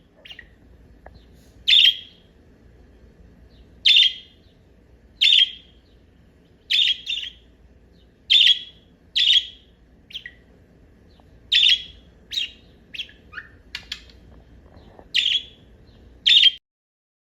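Pet cockatiels chirping: short, sharp, high chirps about once a second, some in quick pairs, over a faint background hum. The sound cuts off suddenly near the end.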